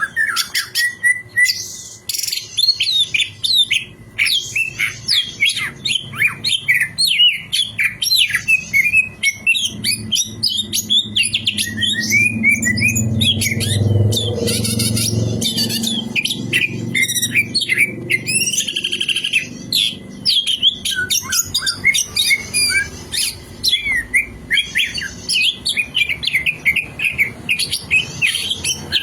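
Green leafbird (cucak ijo) singing a fast, varied song of rapid chirps and sweeping whistles. A low rumble swells under it in the middle and fades a few seconds later.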